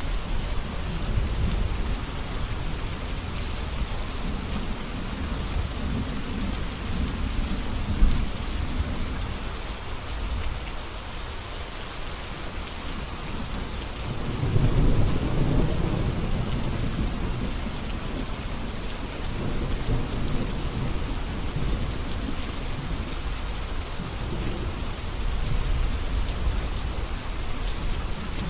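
Steady rain falling, with low rolling thunder swelling and fading several times, loudest about halfway through.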